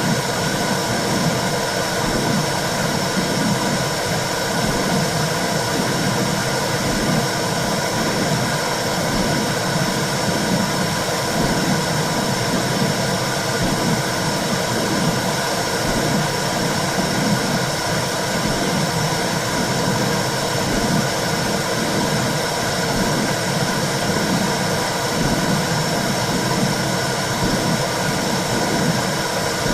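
Womb sound for soothing a baby: a steady whooshing noise with a low, rhythmic pulse beating under it.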